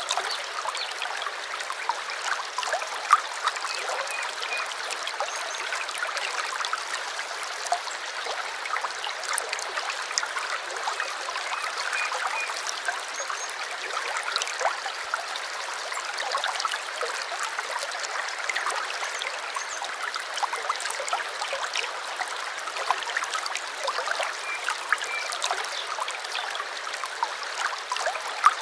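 Brook babbling and trickling, a steady rush of water full of small splashes, with faint short bird chirps now and then.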